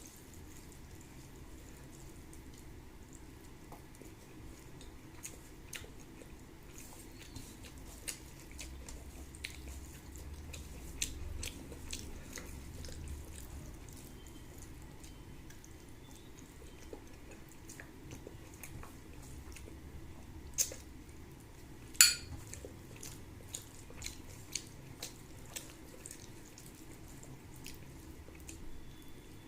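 Close-up eating sounds: soft wet mouth clicks and chewing as rice and curry are eaten. There is one much louder sharp click or tap about three-quarters of the way through.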